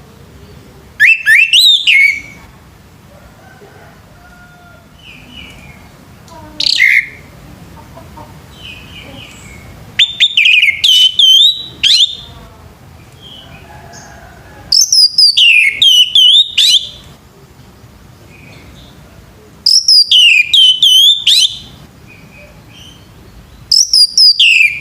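Male orange-headed thrush singing: loud phrases of rapid, sliding high notes, each lasting one and a half to two seconds, about every four to five seconds, with one short single note in between.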